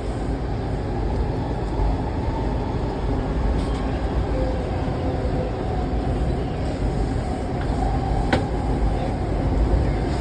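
Washington Metro railcar running, heard from inside the car: a steady low rumble of the wheels on the track, with a single sharp click about eight seconds in.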